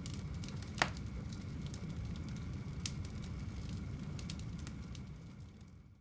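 Wood fire burning in a home fireplace: a steady low rush with scattered crackles, a sharp pop about a second in and another near three seconds. The sound fades away near the end.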